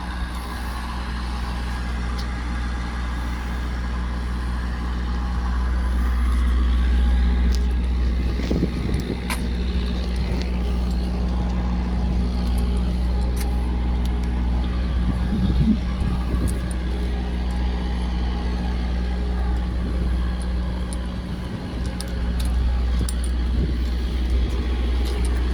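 A diesel truck engine idling steadily at a constant low pitch.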